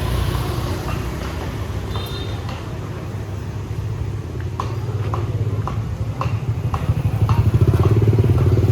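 Motorbike engine running close by in street noise, getting louder from about seven seconds in, with light clicks about twice a second in the middle.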